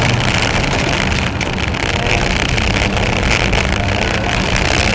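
Fiat Cinquecento rally car's engine running hard under load on a hill climb, heard from inside the cabin together with road and wind noise.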